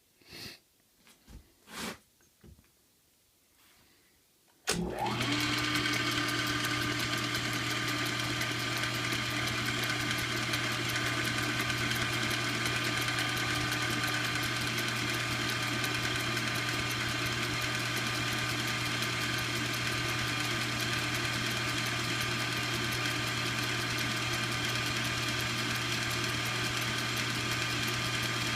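A few light clicks and knocks, then a small lathe's electric motor starts about five seconds in with a quick rising whine and runs steadily, a low hum under a bright whine.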